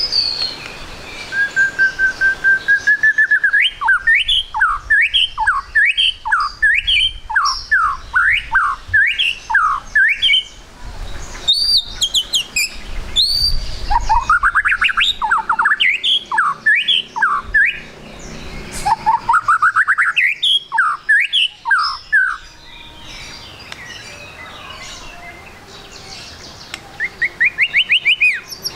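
White-rumped shama (murai batu) singing: a held whistle, then fast runs of rising and falling notes in several bursts separated by short pauses.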